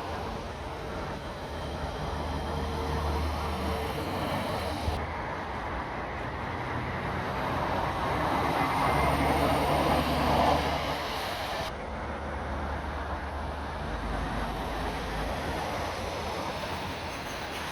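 Road traffic with heavy lorries going by, their diesel engines running as a steady low rumble amid tyre noise. The sound swells loudest a little past halfway as one passes close.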